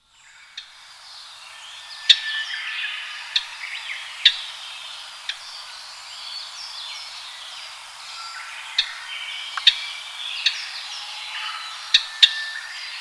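Japanese grosbeaks singing: clear whistled notes stepping up and down in pitch, overlapping, with several sharp clicks scattered through. The sound fades in from silence at the start.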